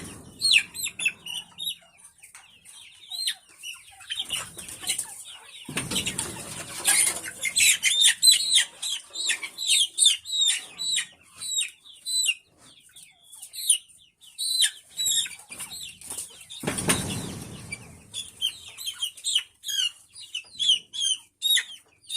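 Chickens calling in many quick, high, falling chirps, with a few short bursts of wings flapping.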